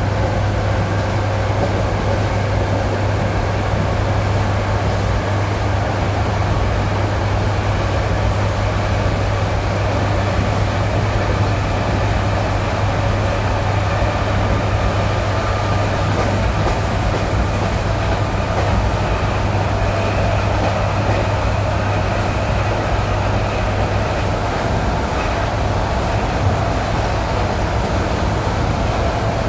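ED9E electric multiple unit under way, heard from inside the car: steady running noise with a low hum and a faint motor whine that climbs slightly in pitch toward the end as the train gathers speed.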